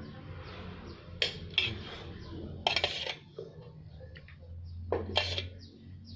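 Dishes clinking and scraping during a meal: a few short clinks about a second in, a tight cluster around three seconds, and another near five seconds.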